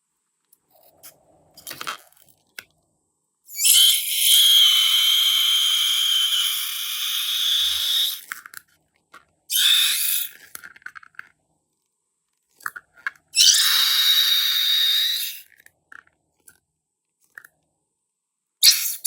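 Pressurised gas hissing out in three sprays: a long one of about four and a half seconds, then two shorter ones. Each hiss carries a steady high whistle, with small clicks and crackles in between.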